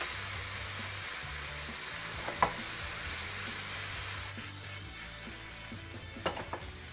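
Chopped broccoli and green pepper sizzling in oil in a nonstick frying pan, stirred with a silicone spatula and shaken, with a sharp knock about two and a half seconds in and two more near the end.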